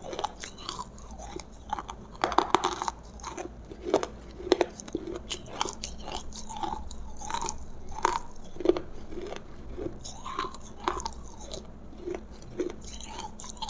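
Close-miked chewing and biting of roasted food, with irregular crisp crunches a few times a second.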